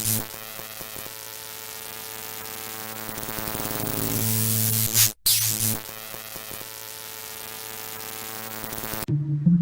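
Electronic intro sound effect: a static-like hiss over a steady low hum, swelling in level, played twice in a row. A synthesizer music tune starts near the end.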